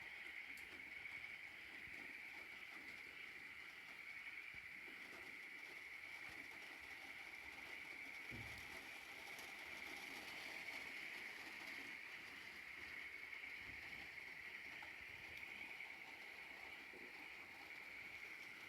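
Near silence: faint steady room tone with a high hiss, broken by a couple of soft low thumps, one about halfway through and one later on.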